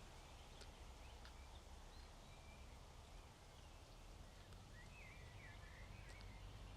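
Near silence in a lull of the wind: a faint low rumble, with a few faint distant bird chirps, mostly in the second half.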